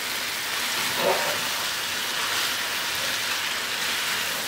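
Lamb and cauliflower curry sizzling in oil in a frying pan: a steady hiss.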